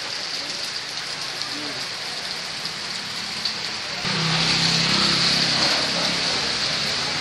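Heavy rain pouring onto a flooded street and splashing in standing water. About four seconds in, the rain gets louder and a low engine hum joins it.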